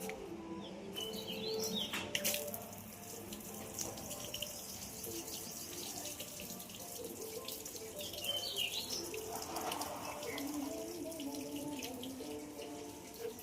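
Running water with a steady rush, and birds chirping a few times, near the start and again after the middle.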